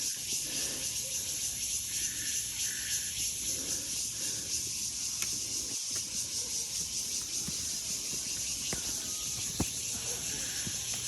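A steady, high insect chorus, typical of cicadas in forest, with faint distant voices and a few light clicks near the end.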